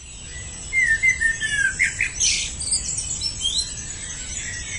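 Wild birds chirping and calling in woodland, with many short whistled notes and gliding calls. They are busiest in the first half, over a low steady background noise and a thin steady high tone.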